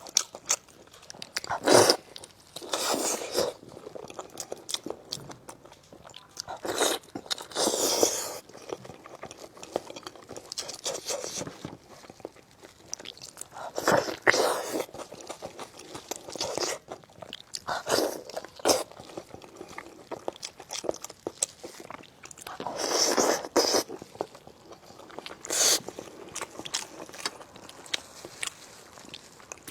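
Close-miked eating of a fatty braised spicy lamb chop: biting and chewing meat off the bone, with louder bursts every few seconds between quieter chewing.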